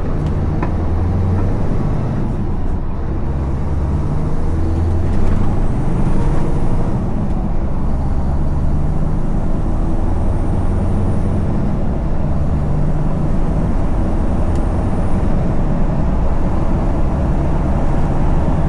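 Scania V8 lorry engine running on the road, a deep low mumble through its standard, not open-pipe, exhaust, swelling and easing several times.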